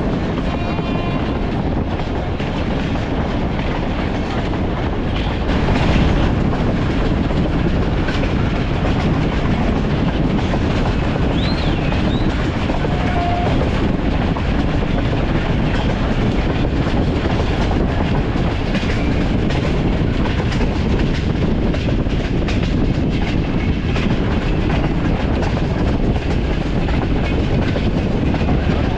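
Passenger train running along the track, heard from on board: a steady rumble of wheels on the rails with rushing wind noise and scattered clicks of the wheels passing over rail joints. It gets a little louder about six seconds in.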